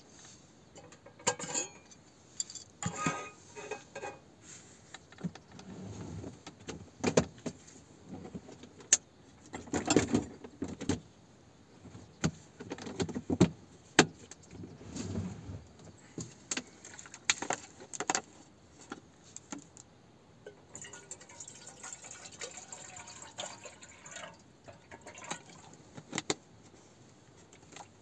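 Irregular clinks, clicks and knocks of small hard objects being handled, with short stretches of clatter and rustling.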